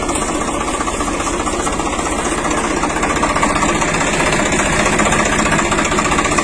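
An engine running steadily at idle with a rapid, even chugging pulse. It is loud and unchanging throughout.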